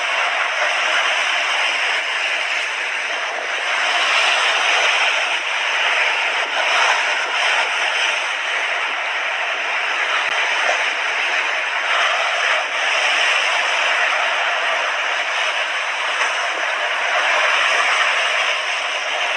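Sea waves breaking and washing up on a beach: a continuous rush of surf that swells and eases every few seconds.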